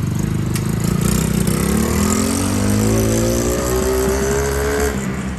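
Coolster 110cc dirt bike's single-cylinder four-stroke engine running, then revving up with a steadily rising pitch from about two seconds in as the bike accelerates. It drops back and gets a little quieter near the end.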